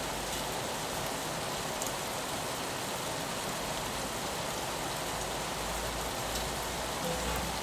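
Steady rain on a window: an even hiss with a few faint drop ticks. A low rumble comes in underneath about five and a half seconds in.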